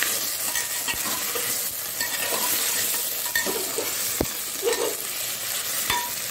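Bottle gourd, potato and onion frying in hot oil in an aluminium pressure cooker, sizzling steadily while being stirred with a steel spoon that scrapes and knocks against the pot a few times.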